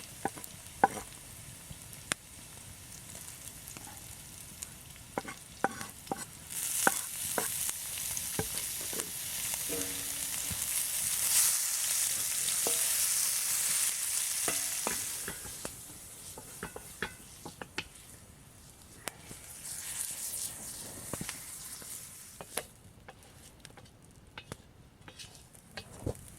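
Food frying in a pan, the sizzle swelling loud for several seconds in the middle and again briefly later, with scattered clicks and clacks of a utensil stirring against the pan.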